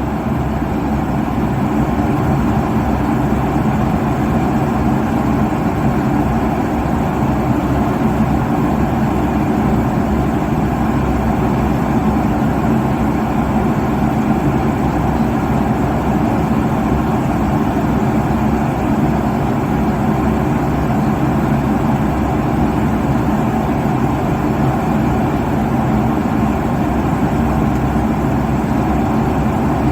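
Airliner cabin noise at cruise altitude: a steady, even rush of engine and airflow noise, heaviest in the low and middle range, unchanging throughout.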